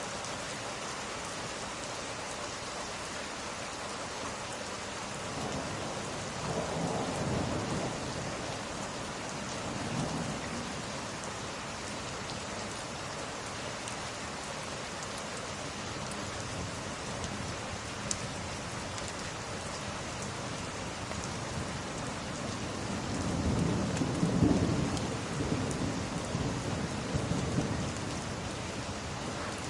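Steady rain with two low rolls of thunder. The first is brief, about a quarter of the way in, and the second is longer and louder in the last third.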